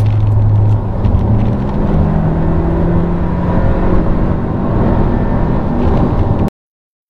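Volkswagen Jetta 2.0 TSI's turbocharged four-cylinder engine and road noise heard from inside the cabin while driving, a steady drone whose pitch climbs slightly. The sound cuts off suddenly near the end.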